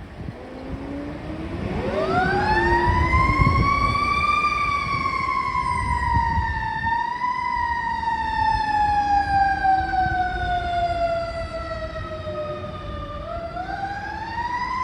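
Fire truck siren winding up in pitch over a few seconds, then slowly falling as it wails, and rising again near the end. The truck's engine rumbles underneath.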